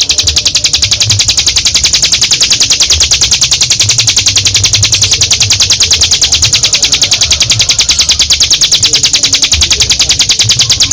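Ciblek gunung (a prinia) singing a long, unbroken 'ngebren' trill: a fast, even, high-pitched rattle of rapid notes held without a pause.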